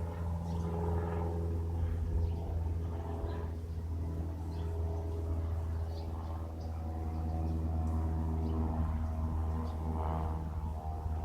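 Single-engine Cessna light aircraft flying overhead, its piston engine and propeller giving a steady low drone.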